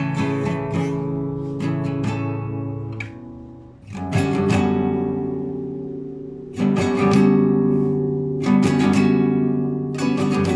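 Classical guitar played solo, improvising: picked arpeggio notes ring and fade, then full chords are struck about four seconds in and three more times after, each left to ring.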